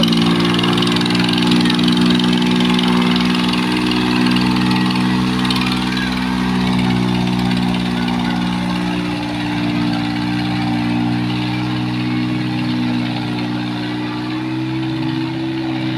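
Tractor diesel engine running at a steady speed, with a slight rise in pitch near the end.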